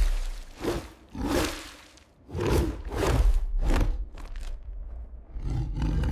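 Wild animals roaring and growling in a string of short separate bursts, about one every half second to second, as in a staged animal fight.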